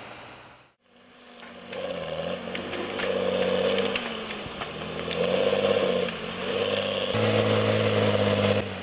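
Heavy forestry machine's engine running and revving, its pitch rising and falling several times, with scattered clanks. The sound cuts out briefly about a second in, then gets louder near the end.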